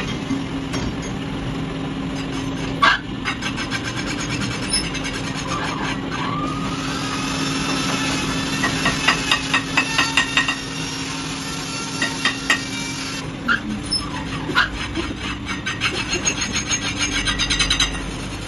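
Lathe machining a disc brake rotor: a steady machine hum with the cutting tool scraping and ticking rapidly against the metal, and some high squealing. The hum drops out about two-thirds of the way through while the rapid ticking goes on.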